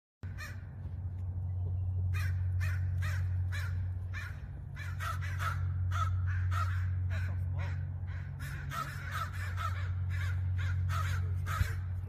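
Birds calling harshly over and over, several short caws a second, starting about two seconds in, over a steady low hum.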